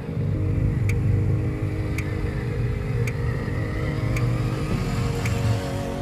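Radio-controlled dump truck running, a low motor rumble that rises at the start and eases off near the end, under background music with a steady beat.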